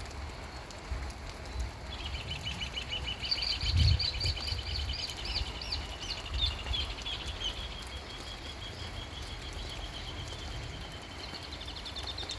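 A bird singing a long run of rapid, repeated high chirps that starts about two seconds in and keeps going, over a constant low rumble with one louder thump near the four-second mark.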